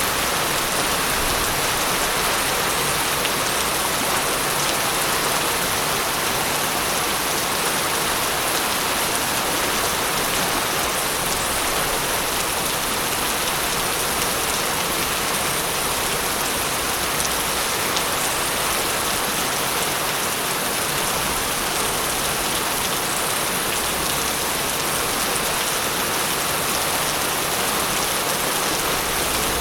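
Steady heavy rain falling on a surface, a dense even hiss of drops.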